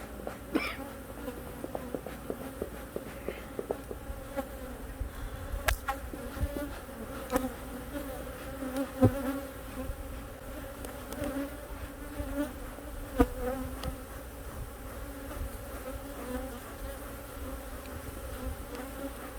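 Many honeybees buzzing loudly around an opened hive. It is a steady, wavering hum, the sound of agitated bees defending their hive against the intrusion. A few sharp knocks cut through it, the loudest about halfway through and again about two-thirds of the way in.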